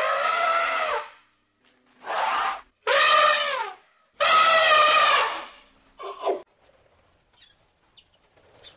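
African elephants trumpeting: five brassy calls with short gaps between them, each about a second long and the last one short. Faint bird chirps follow near the end.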